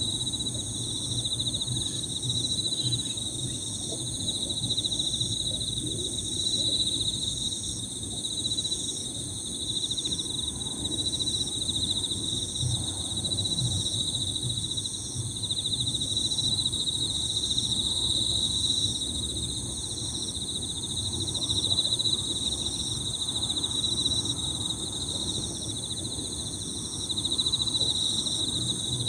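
Chorus of Emma field crickets, many overlapping into a continuous high, shimmering trill, with another high chirp repeating about once a second over a low background rumble.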